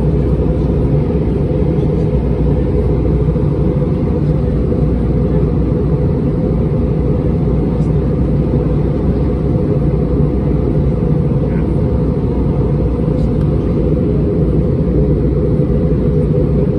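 Steady, even rumble inside the passenger cabin of an Airbus A320-231, from its IAE V2500 engines and the airflow around the fuselage.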